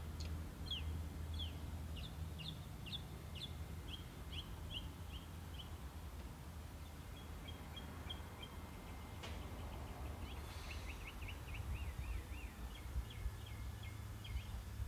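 A bird calling: a long series of short notes, each sliding down in pitch, about three a second. It pauses briefly, then a quicker run of the same notes follows near the end.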